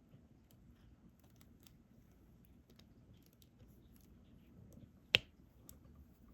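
Small scattered clicks and taps of a diamond painting drill pen picking up resin drills and pressing them onto the sticky canvas, with one much sharper, louder click about five seconds in.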